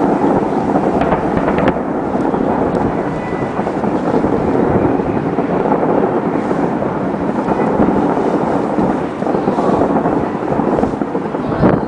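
Massed Chinese New Year fireworks and firecrackers going off all at once, the many bangs and crackles merging into one steady, dense din with a few sharper cracks.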